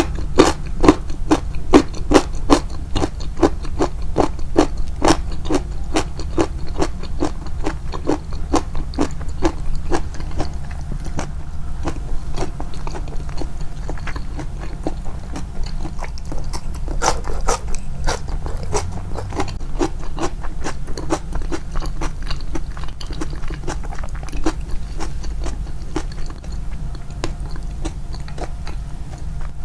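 Close-miked crunchy chewing of nukazuke, Japanese rice-bran pickled vegetables: a fast run of crisp crunches, about three or four a second, thinning out after the first ten seconds with another burst partway through. A steady low hum lies underneath.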